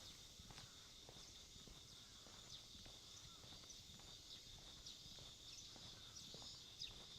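Faint, steady chirring of insects, with light footsteps at walking pace, about two a second.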